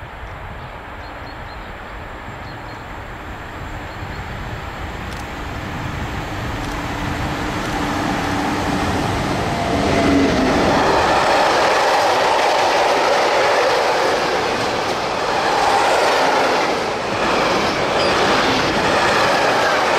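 An ÖBB class 1116 Taurus electric locomotive hauling a long freight train approaches and grows steadily louder, passing close by about ten seconds in. The freight wagons then roll past with a steady rumble and clickety-clack of wheels over the rails.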